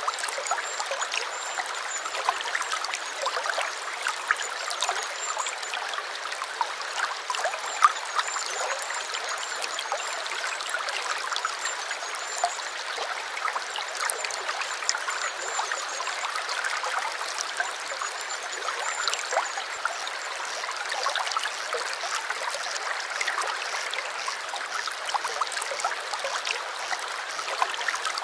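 A small stream running over stones, with a steady bubbling trickle and many little splashes. A faint, high, thin twitter runs through the first two-thirds and then stops.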